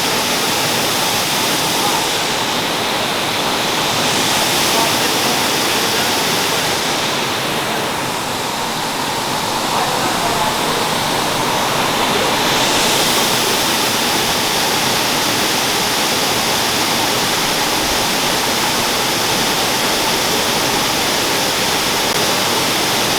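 Waterfall pouring: a loud, steady rush of falling water. Its bright hiss dulls twice for a few seconds, about two seconds in and again from about seven to thirteen seconds in.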